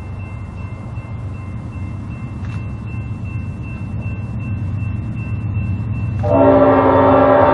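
Diesel locomotive approaching with a low engine rumble that slowly grows louder, then about six seconds in its air horn sounds a loud, steady multi-note chord.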